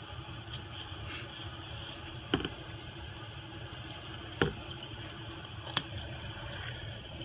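Three sharp little clicks of small parts and tools being handled while an iPhone SE is reassembled, over a steady background hum.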